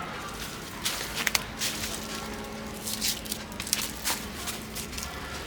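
Rustling and crackling of leafy vines and trellis being handled, in irregular short clicks. A faint steady hum comes in about two seconds in.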